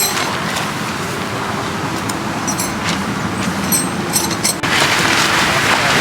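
Strong wind rushing and buffeting, with scattered light clicks and rattles. Near the end it abruptly grows louder and hissier.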